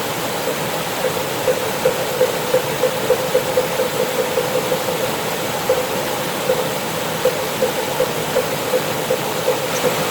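Mountain stream rushing over rocks, a steady wash of water. A pitched knock repeats through it about two to three times a second.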